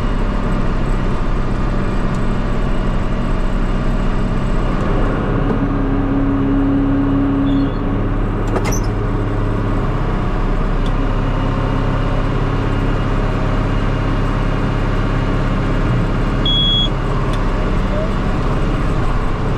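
Tractor engine running steadily under load while pulling a round baler and baling hay.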